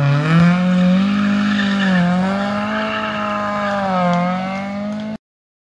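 Rally car engine at full throttle: the note climbs as the car accelerates, then holds high with two brief dips, and cuts off suddenly near the end.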